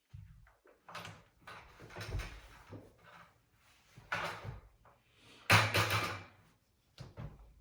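A tool scraping and knocking at the rim of a paint can to work the lid open, in irregular bursts, the loudest about five and a half seconds in.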